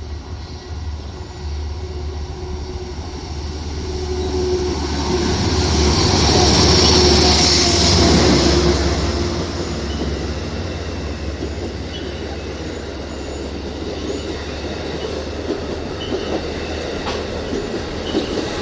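Train running on the rails: a steady low rumble that swells, with a high hiss, to its loudest about seven seconds in, then settles back to a steady rumble.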